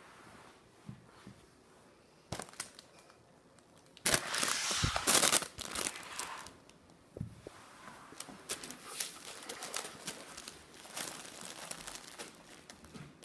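A cat's play tunnel rustling and crinkling as a cat moves and scrabbles inside it, in fits and starts, loudest and busiest about four to six seconds in.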